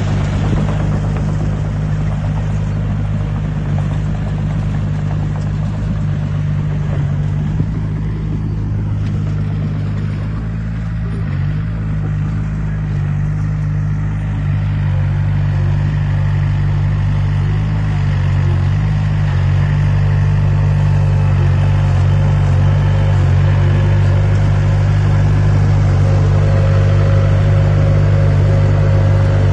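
Heavy construction machine's diesel engine running steadily with a deep drone. Its pitch shifts slightly a few times, and it grows a little louder in the last third.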